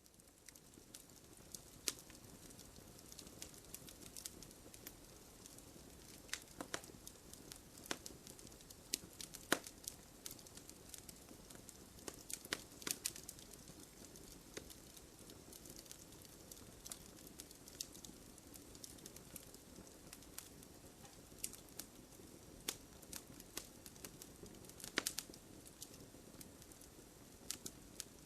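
Wood campfire crackling: a low, steady burning hiss with irregular sharp pops and snaps, the loudest about nine and a half seconds in and again near the end.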